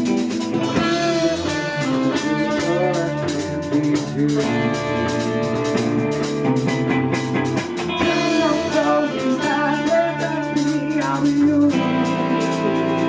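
A live band playing a song: guitars over a drum kit, with a wavering melody line coming in and out over the chords.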